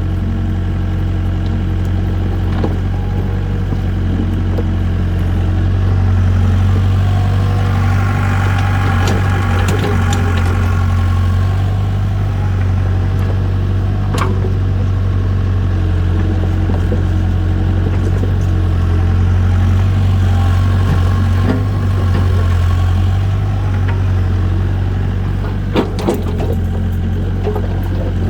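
Diesel engine of a nearby work machine idling steadily, with its engine note swelling briefly partway through. A few sharp knocks sound, once about halfway and twice near the end.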